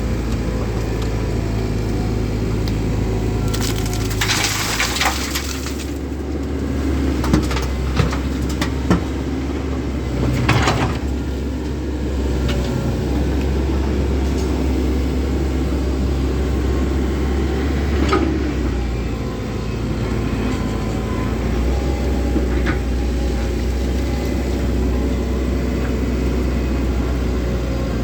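Komatsu 130 excavator's diesel engine running steadily, its note shifting a few times as the hydraulics take load. A rushing burst comes about four seconds in and again near eleven seconds, and sharp knocks and cracks come around seven to nine seconds as the load is dumped into a truck bed.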